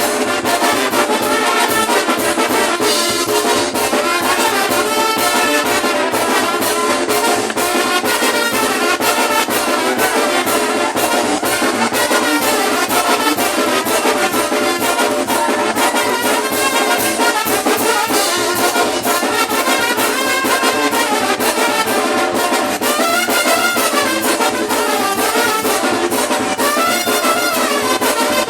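Brass band playing a tune, with trumpets and trombones over a steady drum beat.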